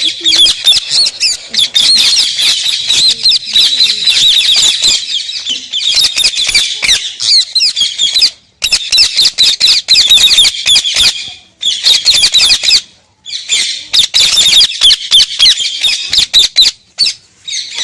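Pet parrot chattering in long runs of rapid, high-pitched warbling calls, broken by several short pauses, with sharp clicks throughout.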